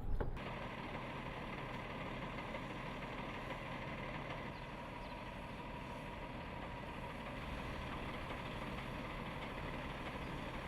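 A steady engine running at idle, with a constant hum throughout.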